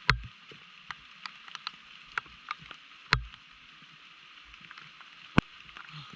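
Heavy rain falling as a steady hiss, with scattered sharp taps and knocks, three of them loud, about at the start, three seconds in and five seconds in.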